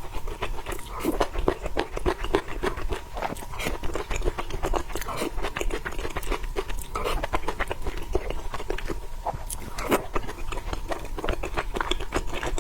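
Close-up mukbang eating sounds: a person chewing and biting food with a dense, irregular run of wet mouth clicks and smacks.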